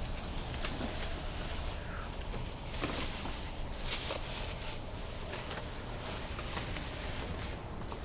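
Bags and discarded items rustling and knocking as they are handled and sorted, with scattered short clicks, over a steady high-pitched drone and a low background rumble.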